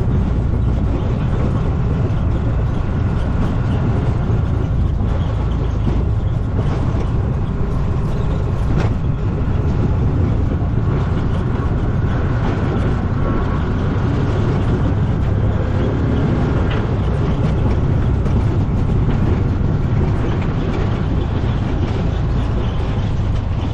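A vehicle driving along a rough dirt road: a steady, loud low rumble of engine and road noise, with occasional faint rattles.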